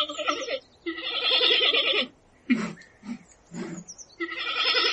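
A farm animal calling over and over: two long, quavering calls of about a second each, with short calls between them.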